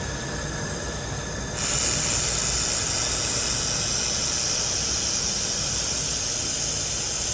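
IPG LightWELD XR handheld laser welder running a continuous-wave, wire-fed weld along a stainless steel outside corner: a loud, steady high hiss that starts suddenly about a second and a half in.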